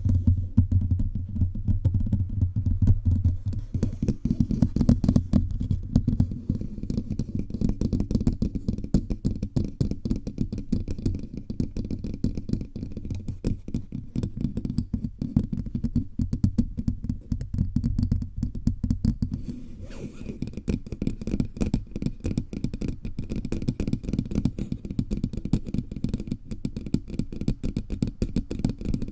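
Fingertips tapping rapidly all over a bare microphone, a dense stream of dull, deep taps picked up directly by the mic. From about twenty seconds in the taps take on a brighter, sharper edge.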